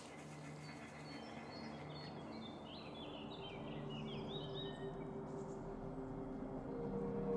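Birds chirping in a quick run of short high notes over a soft background hiss, with low steady tones growing slowly louder toward the end.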